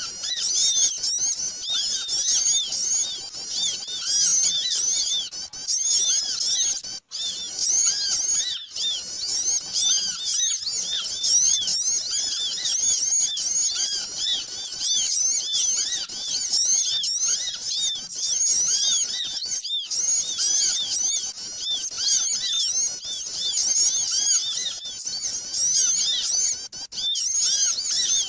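A dense, noisy chorus of many small birds chirping: rapid, overlapping high chirps with no let-up, the kind of recording played as a lure call for trapping small birds. There is a brief dropout about seven seconds in.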